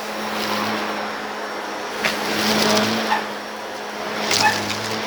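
Vacuum cleaner running with a steady motor hum and rushing airflow. It picks up gritty debris, with sharp crackles and ticks about 2 s, 3 s and 4.5 s in.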